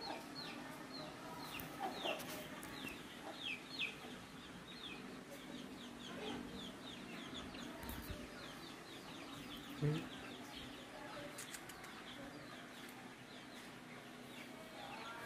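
Birds chirping: a steady run of short, falling chirps, several a second, with a single sharp knock about ten seconds in.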